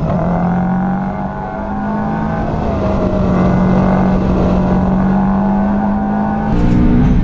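Subaru Impreza WRX STI's turbocharged flat-four engine running hard on a hill-climb run, holding a steady pitch, then jumping up in pitch and getting louder near the end.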